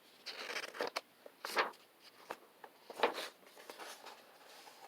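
Paper rustling in a few short bursts as the pages of a picture book are handled and turned.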